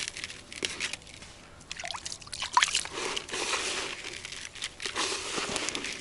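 Store-bought fishing groundbait being wetted with water and mixed by hand with boiled millet: irregular wet crunching and sloshing.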